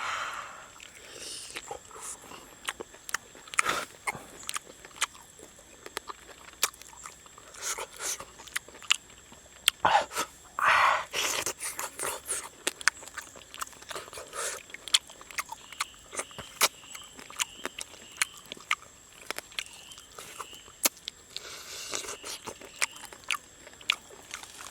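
A person eating cooked frog up close to the microphone: irregular chewing, crunching and sharp lip-smacking clicks, with a few louder bites around the middle.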